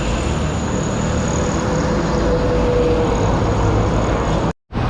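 Steady road traffic noise with vehicle engines running past. The sound cuts out completely for a moment near the end.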